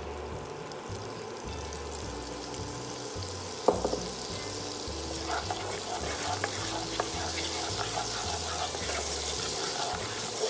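Garlic-and-salt seasoning sizzling gently in melted butter in a pan as a spoon stirs it. One sharp clink of the spoon against the pan comes about four seconds in, followed by lighter scrapes, and the sizzle grows a little stronger near the end.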